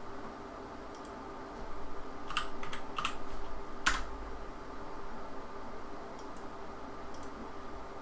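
Clicks of a computer keyboard and mouse while working in CAD software: a quick cluster of clicks a couple of seconds in, the loudest just before the halfway mark, with a few fainter ticks around it, over a faint steady hum.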